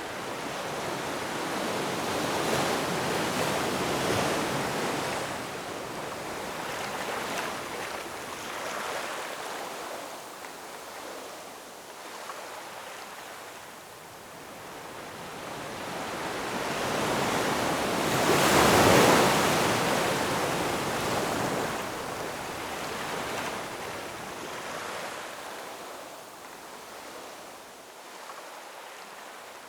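Ocean waves breaking and washing on a shore, the surf swelling and fading in slow surges, with the biggest wave crashing a little past halfway.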